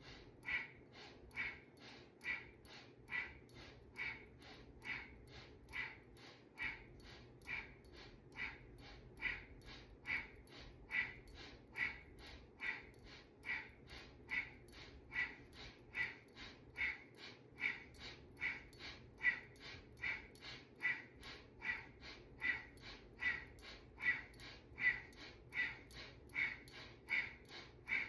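Rapid, forceful breathing through the nose, inhales and exhales alternating in an even rhythm of about two strokes a second, paced to the flexing and arching of the spine in Kundalini Yoga cat-cow.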